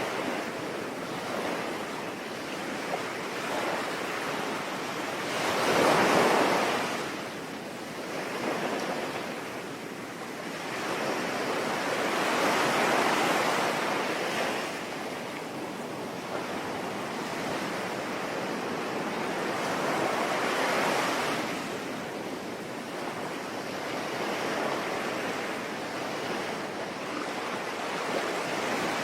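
Ocean waves breaking and washing in over a steady hiss of rain. The surf swells three times, the loudest about six seconds in.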